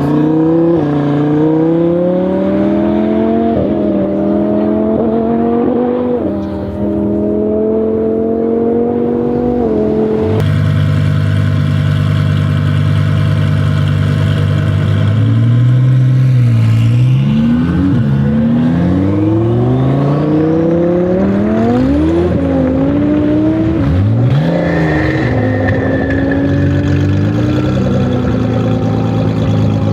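Twin-turbo Audi R8 V10 Plus engine accelerating hard, its pitch climbing and dropping back at each of several gear changes through the first ten seconds. It then holds a steady low note before the revs swing up and down repeatedly in quick rises and falls.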